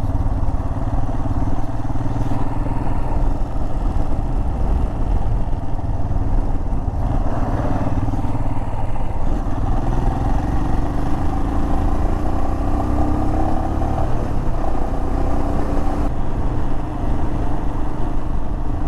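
Royal Enfield Himalayan's single-cylinder engine under way, accelerating onto a highway. The engine note rises in pitch for a few seconds in the middle, then drops at an upshift about fourteen seconds in.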